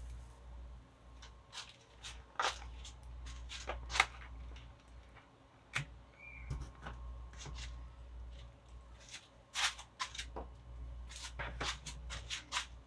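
Irregular scratchy rustles, taps and clicks of wood glue being poured and spread and burlap being handled and pressed onto a styrofoam kayak hull, over a low steady hum.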